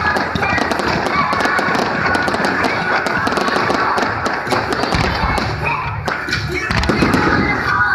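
Fireworks crackling and popping rapidly, with deeper booms of bursting shells in the second half, over music played for the display.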